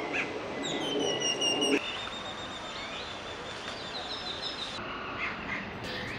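Birds chirping and whistling over steady outdoor background noise, which changes abruptly about two seconds in.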